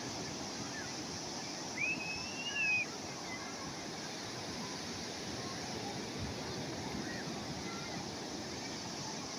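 Steady wash of calm sea waves. About two seconds in, a bird gives one whistled call that rises and then holds for about a second, with a few faint chirps elsewhere.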